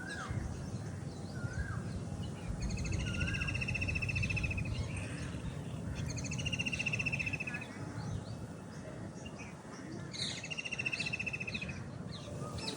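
Birds calling: a long rapid trill on one pitch, about two seconds each, repeated three times, with short upward-hooked chirps between, over a steady low background rumble.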